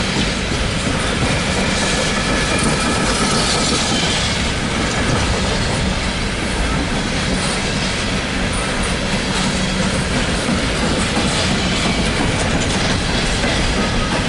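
Empty coal train's open-top steel coal cars rolling past, a steady loud rumble and clatter of steel wheels on rail. A faint high wheel squeal comes and goes.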